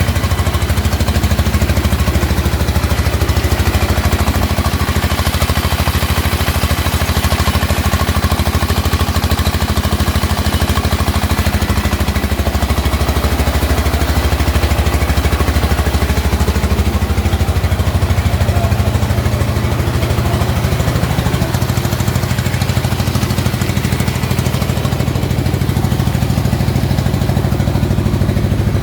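Single-cylinder rice mill engine running steadily with an even, rapid firing beat, its pitch shifting a little about twenty seconds in.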